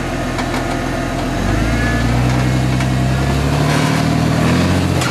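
Lifted Jeep Cherokee's engine running at a steady low idle, then revving up gradually from about a second and a half in as it pulls the rig up a rock ledge, easing off briefly near the end.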